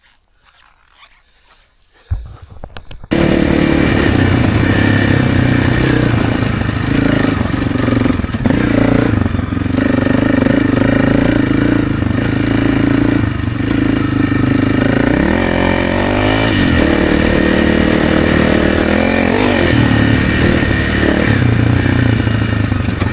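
Honda CRF300's single-cylinder engine running under way, the revs rising and falling now and then. It comes in suddenly about two seconds in, after a faint start.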